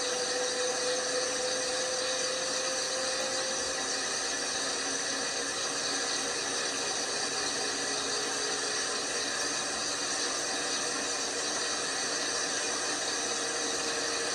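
LG washing machine running with a steady whir and hiss under several held tones, one of which slowly drops in pitch over the first few seconds.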